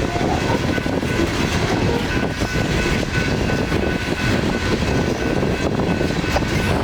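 Coal train's cars rolling past on the rails: a steady rumble of wheels on track.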